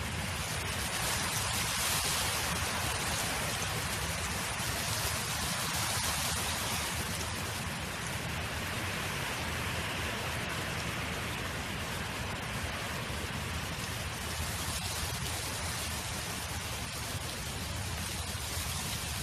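Wind blowing across an open field, a steady rushing hiss that swells gently a couple of times.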